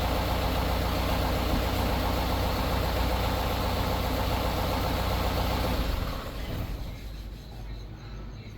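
Hyundai heavy truck's diesel engine idling steadily, then dying away about six seconds in.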